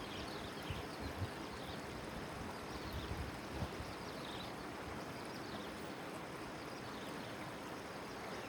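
Steady rushing noise of river water along a moving boat, with faint high falling chirps every second or so and a few soft low knocks.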